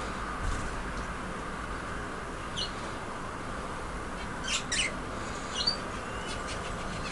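Budgerigars giving a few short, high chirps scattered through, the loudest a quick pair a little past halfway, over a steady background noise.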